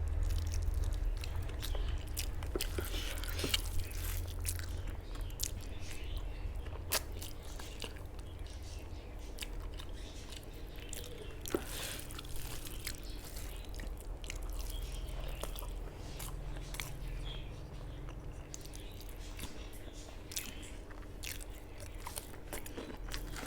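Close-up chewing and mouth sounds of a person eating rice with chicken curry: frequent short, sharp clicks and smacks with some crunching, over a low steady hum.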